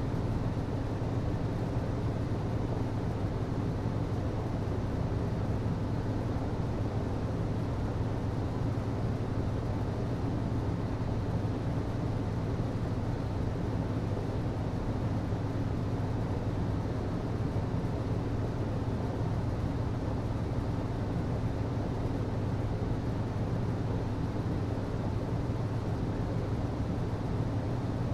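HVAC system running: a steady low hum with an even rush of air, unchanging throughout.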